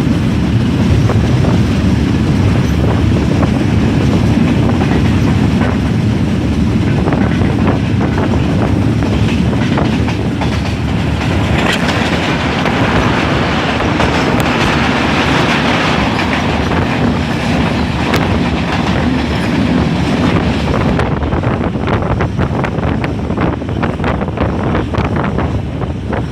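Passenger train running along the track: a steady loud rumble of wheels on rail with clickety-clack, a brighter hissing rush for several seconds in the middle, and a run of sharp clicks over rail joints near the end.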